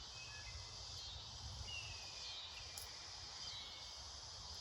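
Steady high-pitched chorus of insects in summer woods, with a few faint, thin falling bird whistles and a low rumble underneath.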